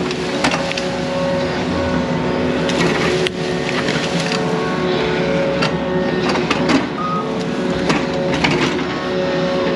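Yanmar mini excavator's diesel engine running steadily, with intermittent sharp clanks and knocks from the machine working.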